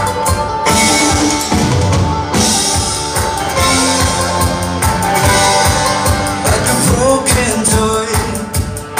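Live band music: a rock song played on acoustic instruments over a steady drum-kit beat, with some singing.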